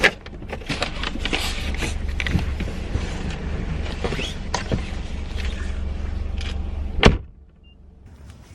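Clicks, creaks and rustling of things being handled inside a car, over the low hum of the running vehicle. About seven seconds in there is one loud knock, and then the hum drops away to a much quieter background.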